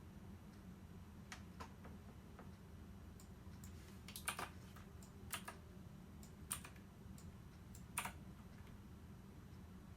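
Small sharp clicks: a few faint ones, then four louder ones spaced about a second or more apart, over a low steady hum.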